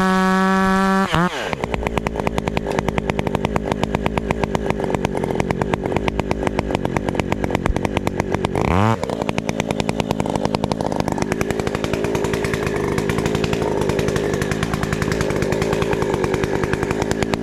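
Two-stroke chainsaw held at high revs, then let off to idle about a second in. It gives one quick throttle blip partway through and settles back to a steady idle.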